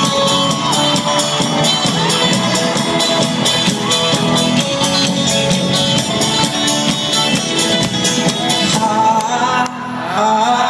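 Folk-rock band playing live at full volume, with a fast, even strummed and drummed beat. Just before the end the band drops back and held sung notes come in.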